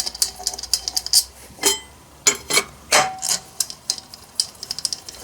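Irregular light clicks and taps of chainsaw parts being handled and fitted, with a few louder knocks.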